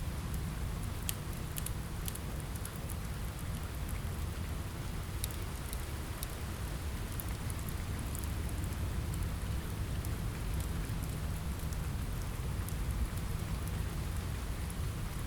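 Steady rain ambience with a deep low rumble underneath, mixed with scattered sharp crackles of a wood fire.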